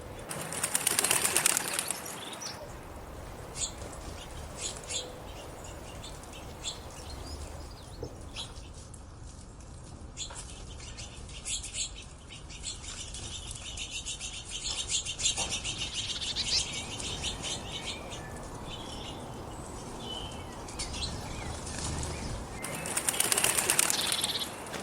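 Birds' wings flapping in two loud flurries, one about a second in and one near the end, with scattered short chirps and clicks between.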